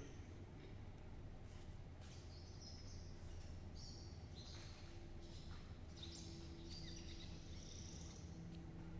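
Faint bird chirps, short high calls scattered through, over a low steady hum.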